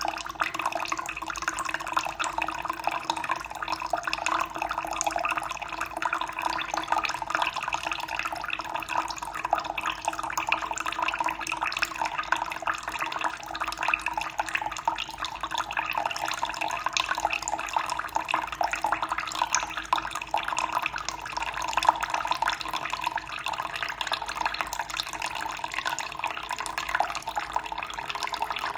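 Running water flowing and splashing steadily, with a continuous fine trickle.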